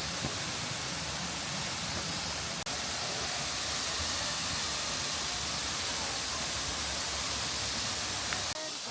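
Steady rushing of a waterfall, with a split-second dropout about a third of the way in and a slight drop in level near the end.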